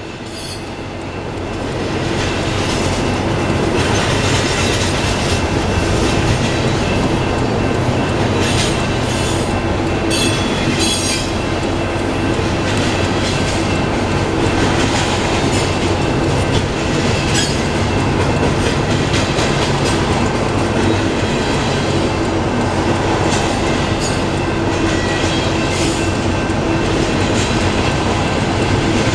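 Union Pacific doublestack freight train rolling past at close range: a steady rumble of steel wheels on rail with clacks and thin high wheel squeals, swelling over the first two seconds and then holding loud.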